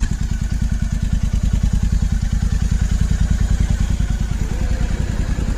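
Royal Enfield GT 650's parallel-twin engine idling steadily through a Red Rooster aftermarket exhaust, a rapid, even low pulsing with no revving.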